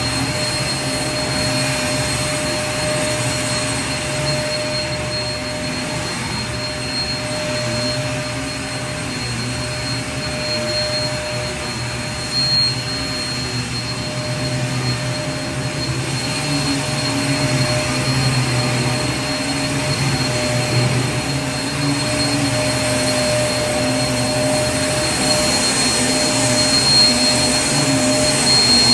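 Vacuum cleaner running steadily: an even rush of air with a constant high whine over a low, slightly wavering motor hum.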